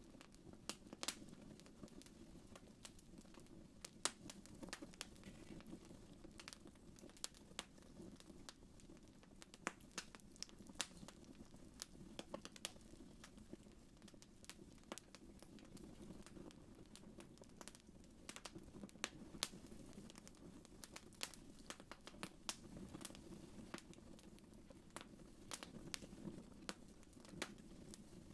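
Wood fire crackling softly in a fireplace: irregular sharp pops and snaps over a low, steady rumble of the flames.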